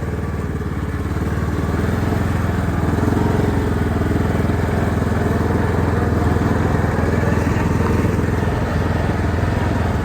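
Riding lawn mower's engine running steadily while the mower is driven, getting a little louder about two seconds in.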